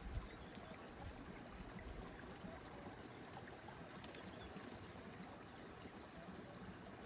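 A mountain stream running steadily, with a few faint high chirps over it.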